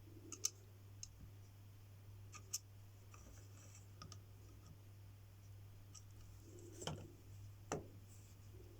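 A few sparse, light clicks and taps from small plastic caster-wheel parts being handled, over a faint low steady hum.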